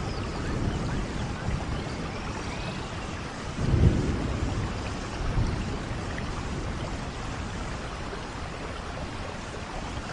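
Steady rainfall, with a low rumble swelling up about four seconds in and a smaller one shortly after.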